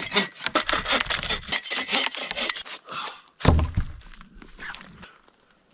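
Hand saw cutting through wood in quick, rasping strokes, then a single loud thud about three and a half seconds in, followed by faint rustling.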